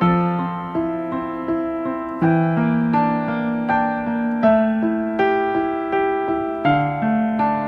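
Background music: a gentle piano or electric piano playing slow chords with a soft melody of decaying notes.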